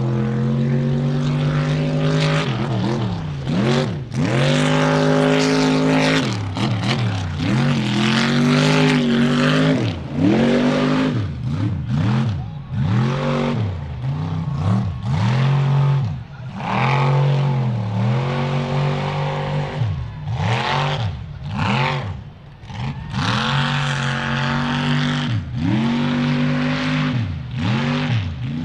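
A mud truck's engine revving hard over and over, its pitch dropping sharply and climbing back many times as the throttle is worked.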